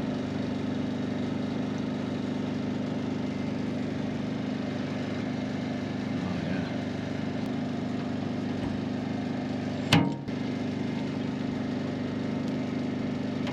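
A steady motor hum with an unchanging pitch. About ten seconds in comes one sharp crack, a paintless-dent-repair glue tab snapping off the truck's metal panel as it is pulled, with the dent not coming up.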